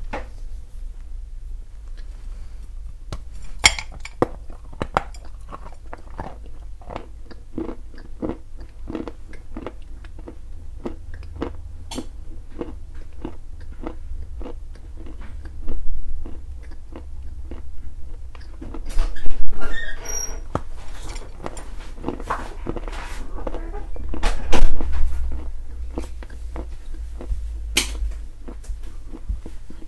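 Close-up crunching of a dry white mineral lump being bitten and chewed: an irregular run of crisp cracks and crumbly snaps, with several louder crunching bursts in the second half.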